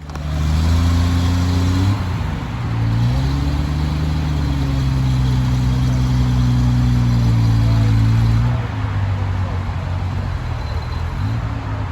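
A car engine running close by, its pitch stepping down and back up a few times as the revs change. About nine seconds in it settles to a lower, quieter run.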